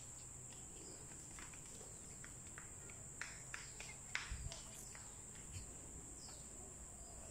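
Steady high-pitched drone of insects at dusk, with a few faint short clicks and chirps in the middle.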